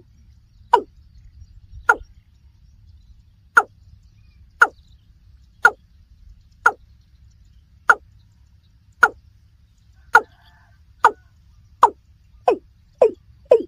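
Watercock (kora) calling: a series of short, sharp notes, each sweeping down in pitch, about one a second, quickening to about two a second near the end.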